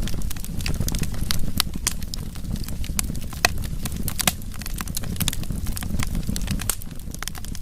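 Wood fire burning, with a steady low rumble of flame and irregular sharp crackles and pops from the burning wood.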